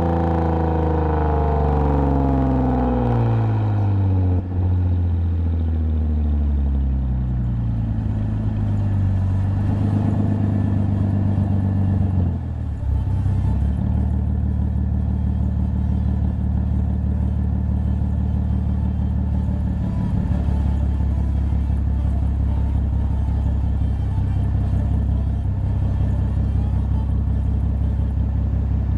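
2010 Lexus IS250 AWD's 2.5-litre V6 heard through a full aftermarket exhaust with valved mufflers: the exhaust note falls steadily in pitch over the first several seconds as the revs drop, breaks briefly about twelve seconds in, then settles into a steady low drone.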